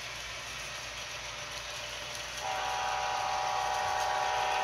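Sound decoder in a model GE ES44 diesel locomotive blowing its multi-chime air horn: a steady chord that starts about halfway through over a faint steady hiss, played through the model's small speaker.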